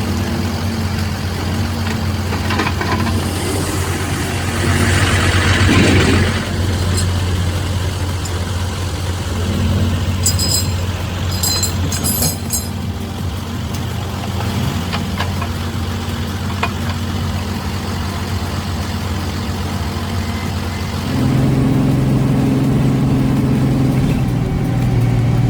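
Logging truck's diesel engine running steadily, with a short hiss about five seconds in. Near the end the engine note steps up higher and louder.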